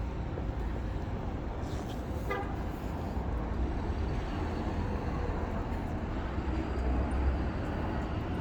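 Steady road-traffic rumble, with one short vehicle-horn toot about two seconds in.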